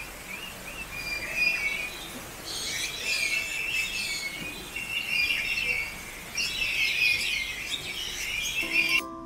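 Many birds in an aviary chirping and calling together, in overlapping clusters of short high chirps and trills.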